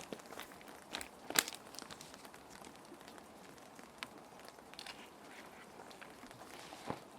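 Plastic sheet protectors crinkling and crackling as they are handled, in a few sharp crackles, over a steady hiss of rain.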